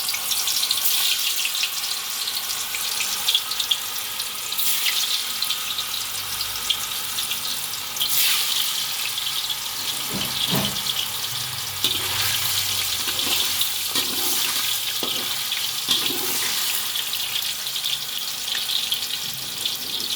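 Pieces of tofu frying in hot oil in a pan: a steady crackling sizzle, with a few soft knocks partway through.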